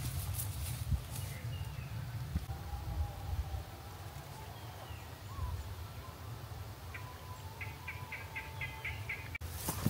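Birds calling, a few scattered chirps and then a quick run of about seven short repeated notes near the end, over a steady low rumble.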